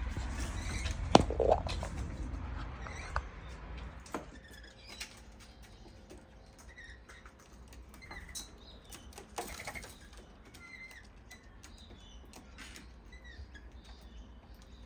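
Wild birds gathering to be fed: a flurry of wing flaps and a sharp knock in the first few seconds, then short chirps and calls scattered throughout with the odd click.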